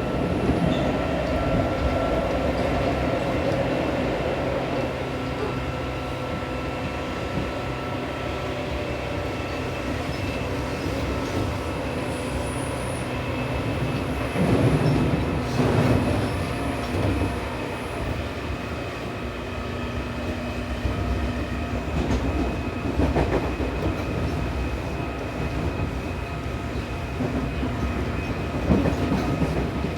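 Seibu New 2000 series electric train running at speed, heard from inside the car: steady rolling noise with wheels knocking over rail joints and points, loudest a little before the middle and again near the end. A faint high wheel squeal comes on the curves around the middle.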